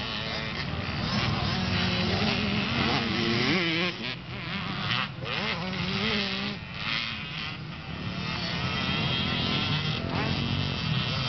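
Small motocross bikes' engines running on a dirt track, their pitch rising and falling again and again as the riders open and close the throttle.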